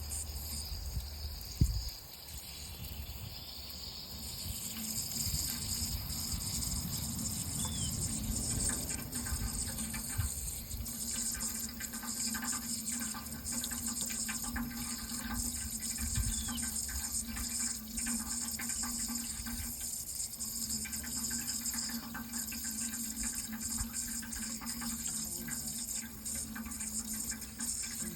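Running water pouring steadily, growing louder about four seconds in, with a low steady hum beneath it. A single sharp knock sounds about a second and a half in.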